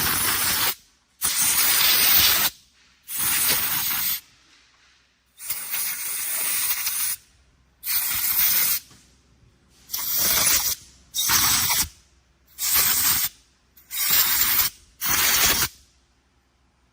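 Compressed-air blowgun fired in about ten short blasts, each around a second long, starting and stopping sharply: air blowing out the transmission housing to clean it.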